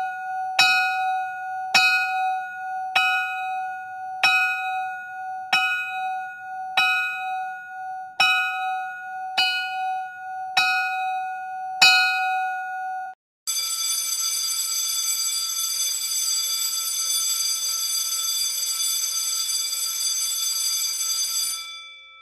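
School bell sound effects. A bell is struck about once every second and a bit, each strike ringing on, about a dozen times. Then, after a short break, a school bell rings continuously for about eight seconds and stops.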